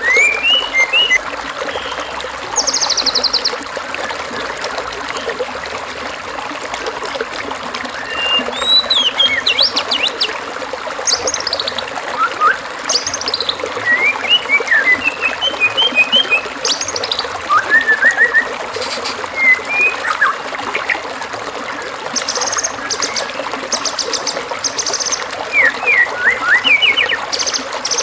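Recorded songbird calls: varied chirps, rising and falling whistles and short buzzy trills, one after another, over a steady trickle of running water.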